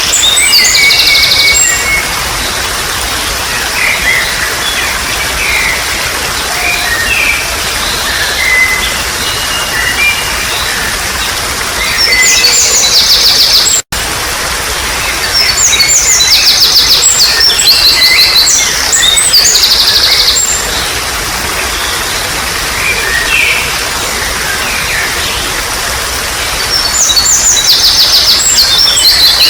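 Steady trickle of flowing water with small birds chirping and trilling in repeated bursts of rapid, high-pitched notes. The sound drops out for a split second about halfway through.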